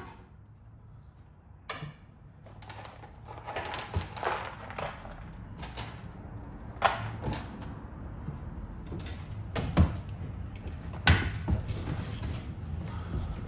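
Scattered sharp clicks and light knocks at irregular intervals, the loudest about 7, 10 and 11 seconds in, over a low steady hum.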